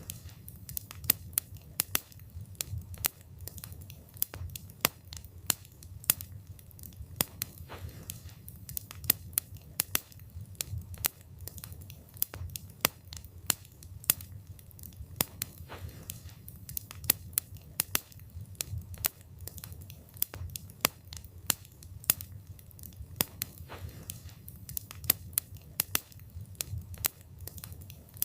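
Wood fire burning, with frequent irregular sharp crackles and pops of the burning wood over a low, steady rumble of the flames.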